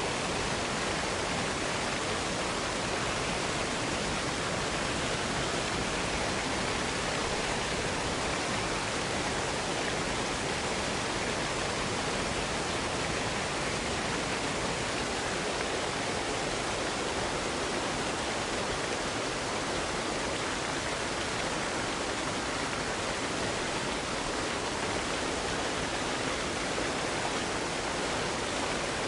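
Waterfall cascade rushing steadily: a constant, even hiss of falling water with no breaks or separate splashes.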